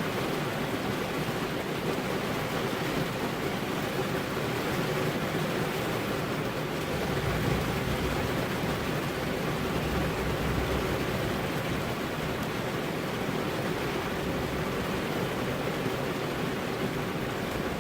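Steady heavy rain, an even wash of noise, with a low rumble swelling briefly about seven seconds in.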